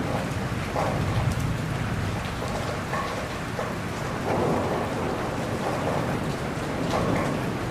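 Steady heavy rain falling on a surface, with scattered drop ticks, under a low rolling rumble of distant thunder that swells briefly about a second in and again near the middle.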